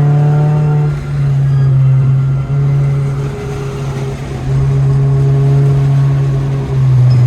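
Car engine pulling under load, its note rising slightly and then dipping and resuming several times, as with gear changes. It is heard at a steady loud level.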